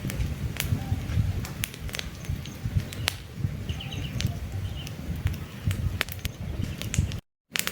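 Wood campfire crackling with frequent sharp pops over a low rumble of flame, with birds chirping briefly now and then. The sound cuts out to silence for a moment near the end.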